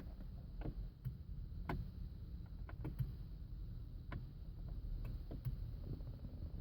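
Irregular clicking from the passenger side of a 2007 Land Rover Freelander 2 that will not start: no cranking, only about a dozen sharp clicks, heard over a low rumble.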